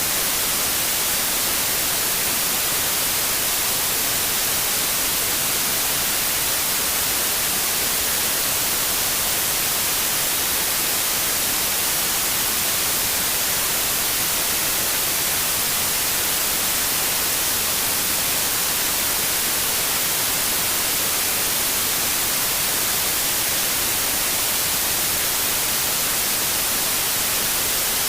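Steady synthetic white noise: an even, unchanging hiss across all pitches, heaviest in the high end.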